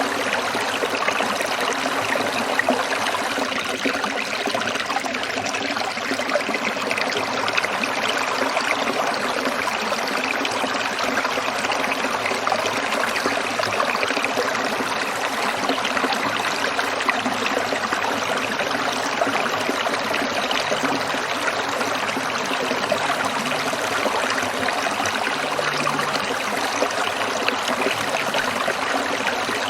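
Stream water trickling and babbling over stones, a steady even flow with fine splashing texture.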